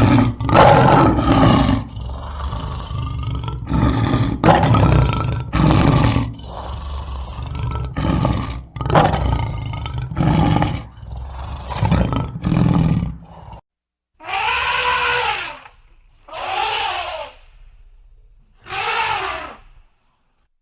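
An animal roaring over and over, loud, one roar after another for about thirteen seconds, then cut off abruptly. After a short gap, three separate drawn-out calls from another animal, each rising then falling in pitch.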